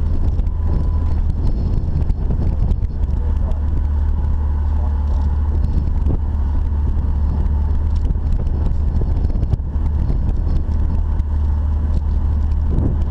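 Off-road Jeep driving, heard as a steady, loud low rumble of engine and drivetrain with scattered light knocks.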